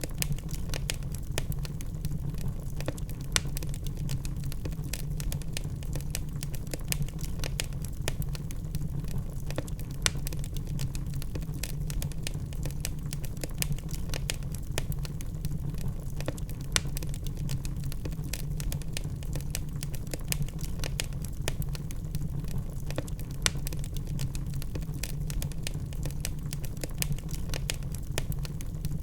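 Wood fire of burning logs crackling steadily, with dense irregular snaps and a few louder pops, over a low steady rumble of the flames.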